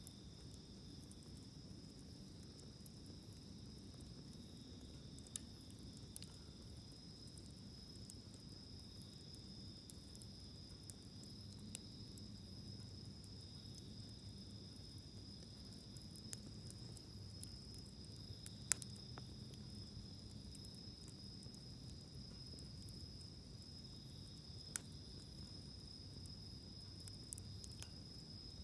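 Insects trilling steadily in two high pitches, with a few sharp isolated pops from a wood campfire, the loudest about two-thirds of the way through.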